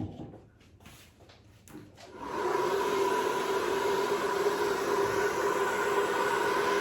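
A few handling knocks and clicks, then about two seconds in a hair dryer switches on and runs steadily: a rush of air with a steady motor whine.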